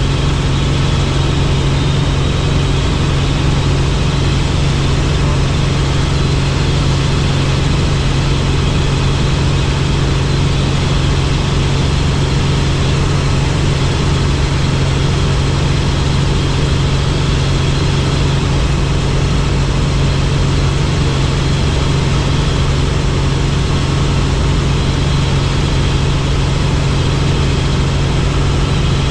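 Helicopter in flight: the steady, unbroken drone of its engine and rotor, with a strong low hum that holds the same pitch and level throughout.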